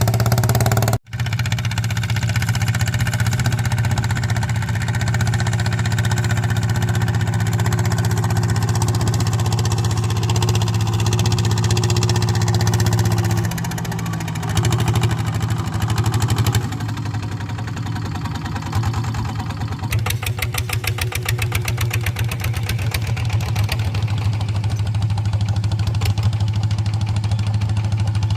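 Walk-behind tractor's single-cylinder diesel engine running steadily, its note dropping and picking up again partway through.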